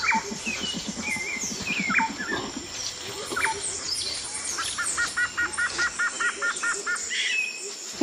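Birds chirping and calling, with short rising and falling chirps throughout and a fast run of about ten repeated chirps around the middle.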